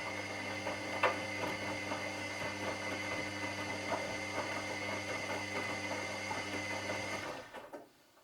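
Washing machine running, a steady motor hum with a high whine and irregular light clicks and knocks from the turning drum. The motor stops near the end and the sound dies away, as in the pause between drum turns in a wash cycle.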